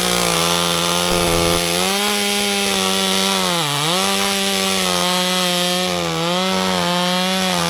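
Chainsaw running at high revs, cutting up a felled tree into firewood lengths. Its pitch holds steady and dips sharply once near the middle as the chain loads in the wood, with smaller dips near the end.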